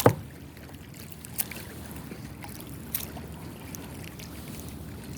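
Lake water lapping and trickling against a kayak's hull, with one sharp knock at the very start and a couple of faint ticks later.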